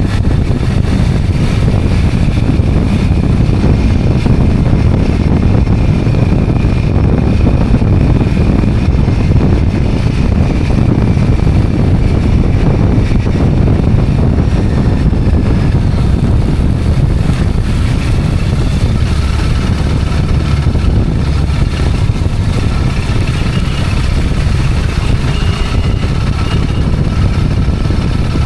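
Motorcycle running along at steady speed, with a continuous heavy rumble of wind on the microphone and no change in pace.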